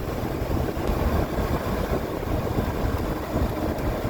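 Ford F-150 pickup's engine running through its non-stock exhaust as the truck drives, a steady low rumble mixed with road noise.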